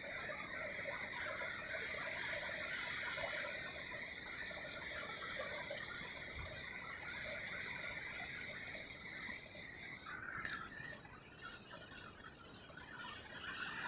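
Footsteps on a sandy trail at a walking pace, about two to three steps a second, over a steady hiss, with one sharper click about ten seconds in.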